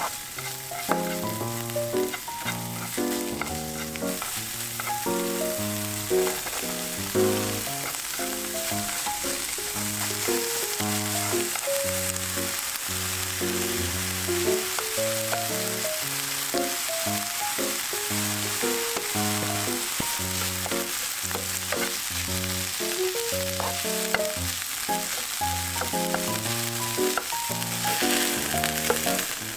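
Smoked duck breast, onion and rice sizzling steadily in a hot nonstick frying pan as they are stirred, with light clicks of the utensils against the pan. A gentle background tune plays throughout.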